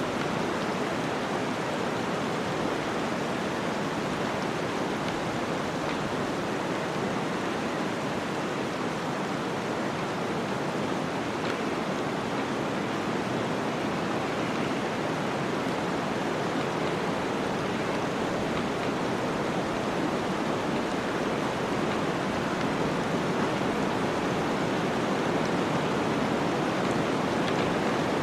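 Flowing water rushing steadily in an even, unbroken hiss, with no distinct splashes.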